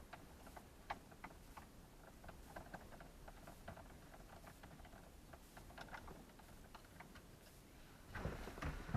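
Faint, irregular small clicks and taps of hands working plastic dashboard trim and screws, with a louder scrape or rustle about eight seconds in.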